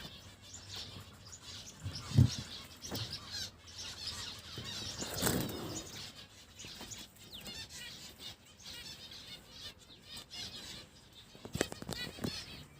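Caged finches chirping and twittering, with wings fluttering. A sharp thump about two seconds in, and a few lighter knocks later.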